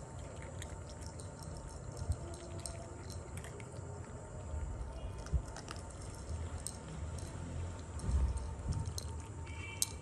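Kittens eating wet food, with soft chewing and smacking and many small clicks.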